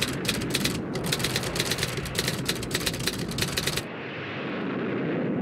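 Typewriter keys clattering in a rapid run that stops abruptly near four seconds in, after which a low rush of noise swells steadily.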